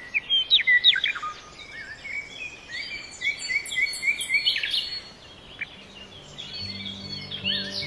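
Birds singing and chirping: many short whistled notes and quick sweeps in pitch, overlapping, from several birds. Soft music with low sustained notes comes in about six seconds in.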